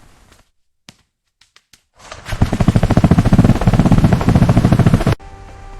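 A few faint clicks, then a loud, rapid rattling that lasts about three seconds and cuts off suddenly.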